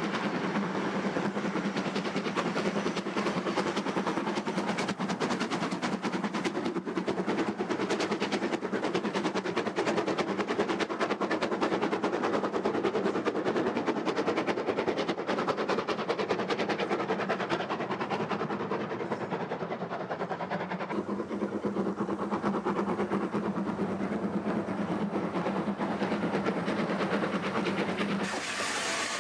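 Steam locomotive working along the line, its exhaust beats coming fast and continuous over a steady low hum. The sound drops away sharply near the end.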